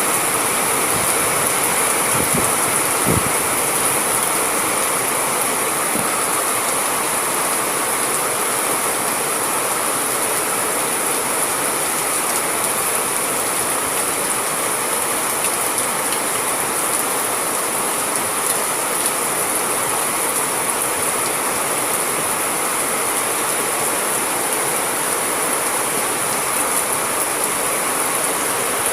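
Steady heavy rain falling, a dense, even hiss with no thunder. A few soft taps sound a few seconds in.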